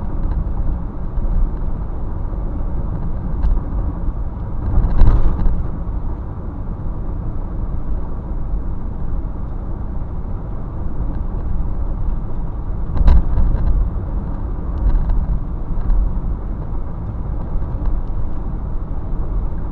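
Steady low vehicle rumble, with two brief louder noises about five and thirteen seconds in.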